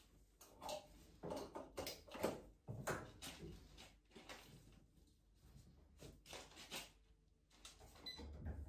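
Faint, irregular knocks and clicks of objects being handled and set down, with a low hum underneath.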